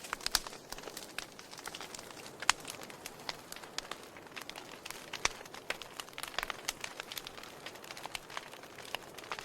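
Wood fire in a fireplace crackling, with irregular sharp pops over a soft steady hiss; the loudest pop comes about two and a half seconds in.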